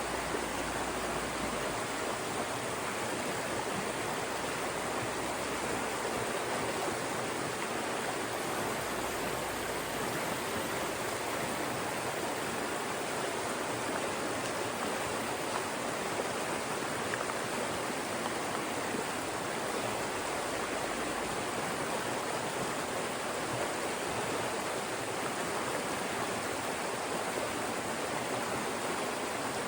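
Fast-moving mountain stream rushing steadily over and between rocks, a continuous even splashing.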